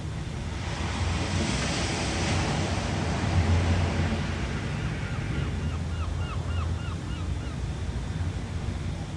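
Ocean surf: a wave washes in with a swelling hiss about a second in and fades away by about four seconds, over a steady low rumble of surf. Midway, a quick run of about ten short high chirps, about four a second.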